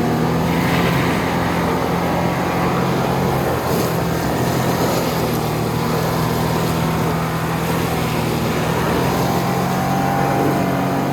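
Off-road 4x4's engine held at steady revs in second gear as it drives through a rutted trail obstacle.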